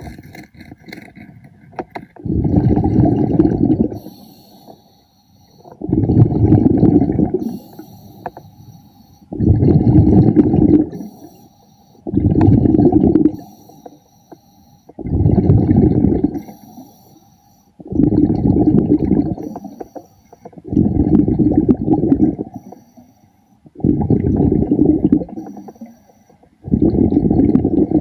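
A diver breathing underwater through a breathing apparatus: a rush of exhaled bubbles about every three seconds, each lasting a second or two, with fainter inhalations between.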